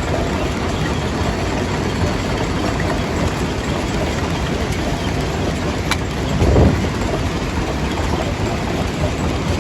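Stone crusher running under load, a steady dense rumble and clatter of rock being crushed, with one heavier thud about six and a half seconds in.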